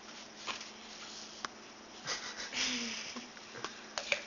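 A baby sniffing and breathing while eating, with a few light clicks and a brief small voice sound partway through.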